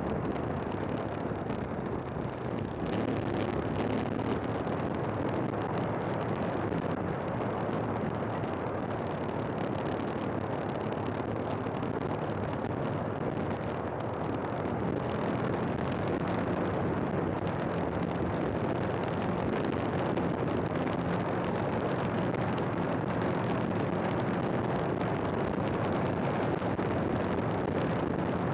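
KTM 390 Adventure's single-cylinder engine running steadily as the motorcycle rides along, mixed with heavy wind and road noise.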